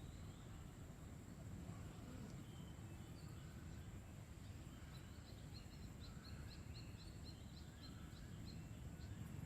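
Faint outdoor background rumble with a steady thin high-pitched whine. About halfway through, a bird gives a quick run of short repeated chirps.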